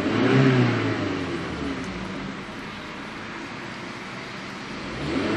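2000 Volkswagen Bora's engine revved while standing: a quick rev rising and dropping back in the first second or so, settling to idle, then a second rev starting near the end.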